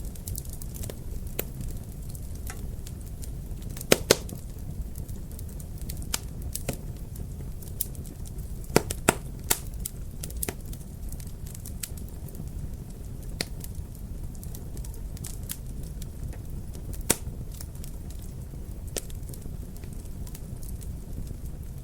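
Wood fire in a fireplace crackling, with irregular sharp pops over a low steady rumble. The loudest pops are a quick pair about four seconds in and a cluster around nine seconds.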